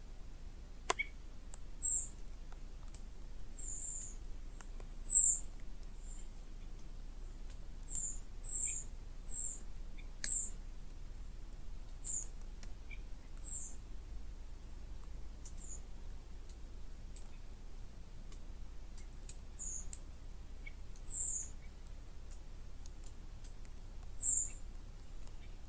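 Woodland ambience heard from inside a tent: a bird giving short, very high chirps every second or two, with scattered faint ticks over a low steady rumble.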